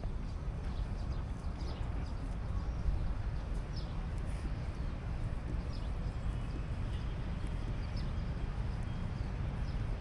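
Outdoor city ambience: a steady low rumble, with faint short high chirps here and there.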